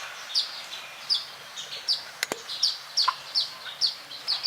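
A bird calling in a steady series of short, high chirps, each falling in pitch, about two to three a second. A single sharp click sounds a little past two seconds in.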